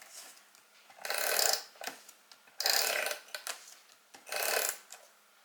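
Adhesive tape runner pressed along the edges of a paper card panel in three short strokes about a second and a half apart.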